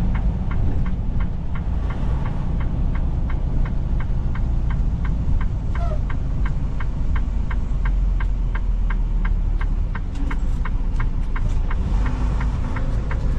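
Semi truck's diesel engine and road rumble inside the cab, steady and low, with a regular ticking of the turn signal at about three clicks a second.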